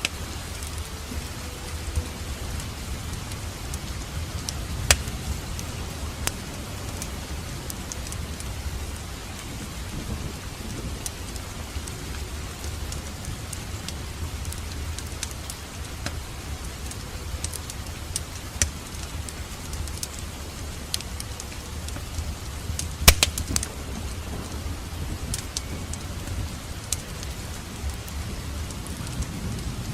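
Wood fire crackling in a fireplace: a steady low rumble and hiss of the flames with scattered sharp pops and snaps. The loudest cluster of pops comes about three quarters of the way through.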